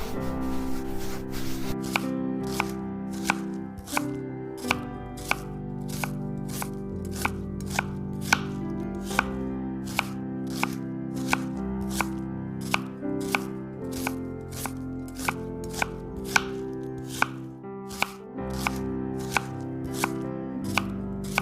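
Knife chopping on a cutting board in steady, even strokes, about one and a half a second, over soft background music.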